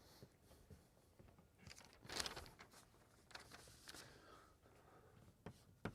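Near silence: room tone with a few faint, short scratches, the loudest about two seconds in, typical of chalk writing on a blackboard.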